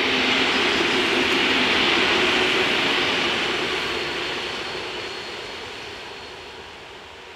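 EN57-type electric multiple unit passing close on the track and running off into the distance: wheel and rail noise peaks about two seconds in, then fades steadily. A thin high whine joins it from about four seconds in.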